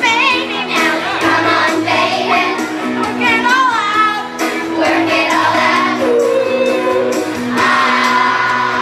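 Children's chorus singing a song with instrumental accompaniment, the voices rising and falling in pitch over steady held backing notes.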